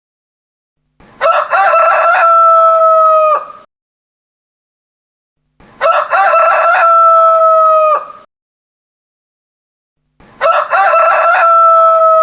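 Rooster crowing three times, about four and a half seconds apart, each crow a choppy start that swells into a long held note before dropping off. The three crows look identical, a single crow repeated.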